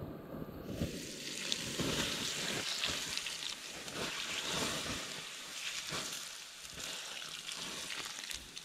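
A campfire being doused with water: the hot embers hiss and sizzle steadily with small crackles, easing off near the end.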